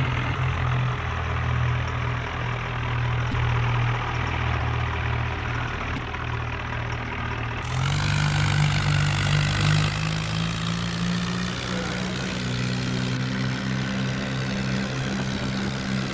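Diesel tractor engine running steadily at low revs, its note shifting up slightly about eight seconds in.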